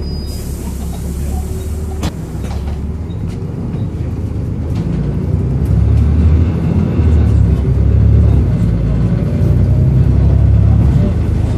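Volvo B7RLE bus's six-cylinder diesel engine running with a heavy low drone, getting louder from about five seconds in as it works harder. A hiss of air for the first two seconds is followed by a click.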